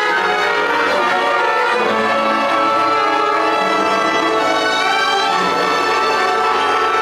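Upper primary school concert band playing a piece: woodwinds and brass holding sustained chords at a steady volume.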